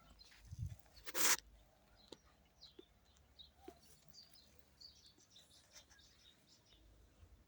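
Faint birds chirping here and there, with a short, loud rustling scrape about a second in and a low thump just before it.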